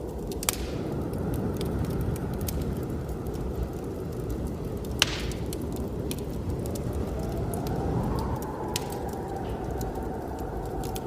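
Wood fire crackling in a fireplace, with scattered sharp clicks and two louder pops about half a second and five seconds in, over the steady rush of blizzard wind. A faint wind howl rises about seven seconds in and holds.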